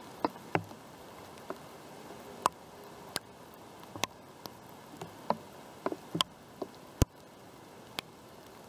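Scattered raindrops hitting a surface close to the microphone: sharp irregular taps, about one or two a second, over a steady hiss of rain.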